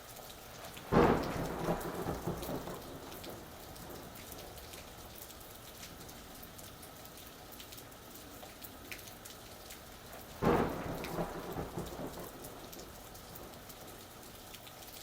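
Steady rain falling, with two claps of thunder, one about a second in and one about ten seconds in. Each starts suddenly and rumbles away over about two seconds.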